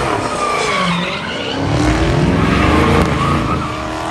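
A car's engine revving hard while its tires squeal and skid on pavement in a burnout-style stunt. The engine pitch climbs and falls, loudest about halfway through.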